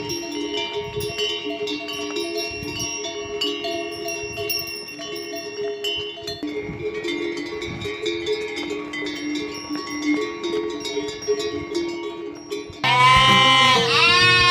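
Bells ringing steadily, with many small clicks among the held tones. Near the end a loud bleat breaks in, wavering up and down in pitch.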